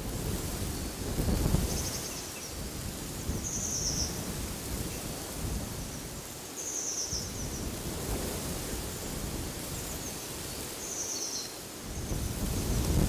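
Wind gusting in trees and rumbling on the microphone, swelling about a second in and again near the end. A bird repeats a short, high, buzzy call every two or three seconds.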